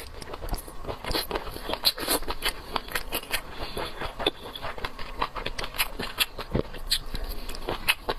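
Close-miked eating of a large scallop: wet chewing with quick, irregular mouth clicks and smacks, several a second.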